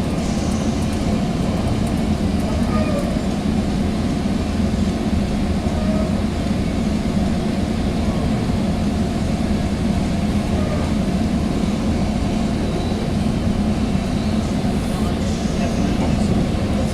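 Steady low rumble inside a Sounder commuter rail passenger coach, the even noise of the train heard from a seat in the car.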